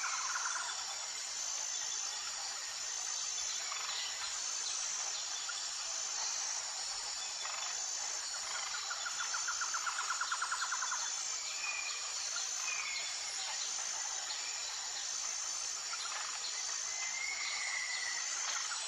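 Tropical forest ambience: a steady high insect drone with a short chirp repeating evenly, a rapid pulsing trill for about two seconds some nine seconds in, and a few brief whistled bird calls near the end.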